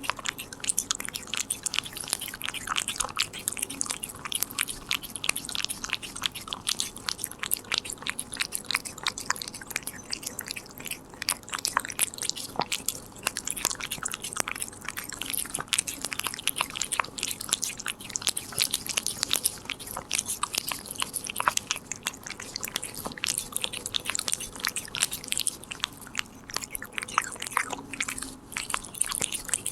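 Korean shorthair cat chewing a treat close up, a steady stream of rapid crisp chewing clicks.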